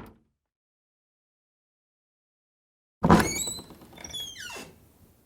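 Wooden door: the tail end of a thud right at the start, then about three seconds in a sharp knock followed by the squeaky creak of the hinges as the door swings, gliding up and down in pitch for about a second and a half before fading out.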